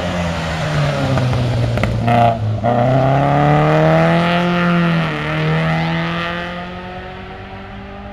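Alfa Romeo rally car's engine revving hard as it accelerates past, with a brief break and crackle about two seconds in, and a short dip in pitch near five seconds as it shifts gear. It then fades as the car drives off.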